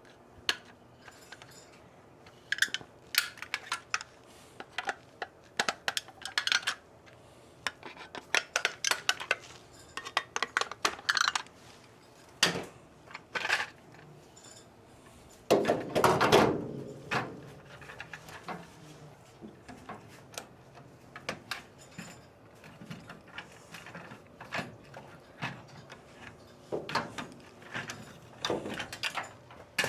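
Hand tools and metal engine parts clinking and clattering in irregular short knocks during distributor removal work, with a longer, louder clatter about halfway through.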